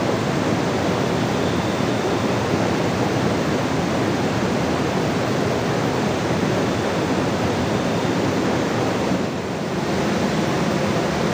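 Loud, steady rush of water, dipping briefly about nine seconds in.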